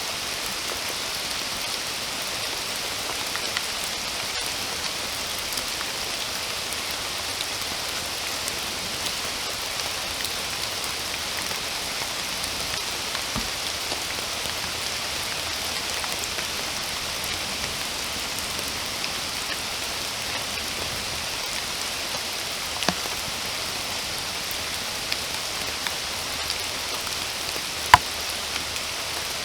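Steady rain falling in a forest, an even hiss with scattered individual drops plinking; one sharper, louder drop stands out near the end.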